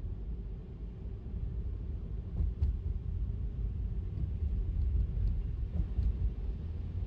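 Car driving on a wet road: a steady low rumble of road and tyre noise, with a few faint ticks scattered through the middle.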